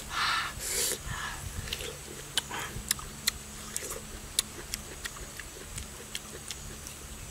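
Close-up eating of juicy fruit: noisy, wet chewing and slurping in the first second or so, then a run of sharp, wet mouth clicks and smacks as the chewing goes on.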